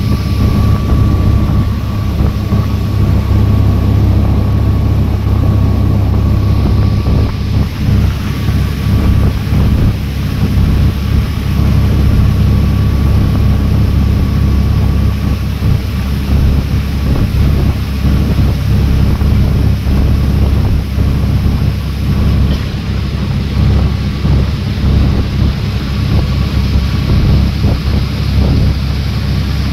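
Small passenger boat's engine running steadily under way, with wind buffeting the microphone.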